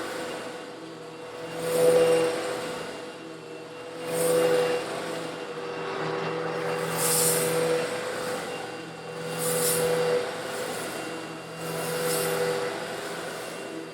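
An old Eureka vacuum cleaner running steadily while sucking up small, coarse stone granules a little larger than sand. Its motor hum holds steady, and about every two and a half seconds the sound swells with a gritty hiss as another pass pulls granules up.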